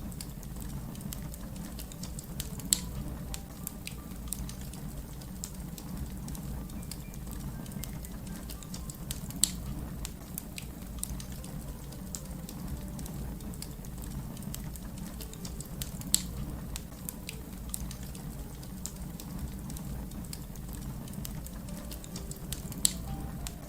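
Crackling fire: a steady low rumble of burning with frequent small crackles and four louder pops, spaced about six to seven seconds apart.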